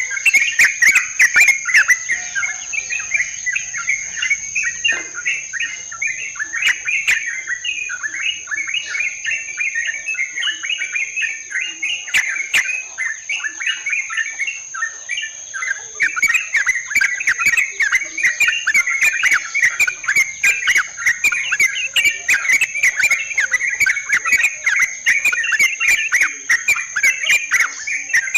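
Yellow-vented bulbul (trucukan) calling in a continuous, rapid, bubbling chatter of short notes. A steady high insect-like whine runs underneath.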